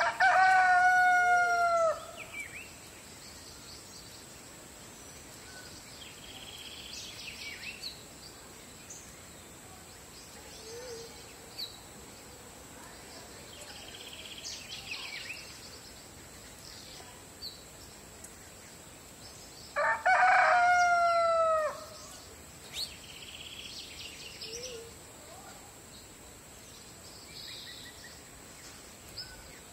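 A rooster crowing twice, once at the start and again about twenty seconds later, each crow about two seconds long and ending in a falling pitch. Short bird chirps and calls come and go between the crows over a steady high-pitched tone.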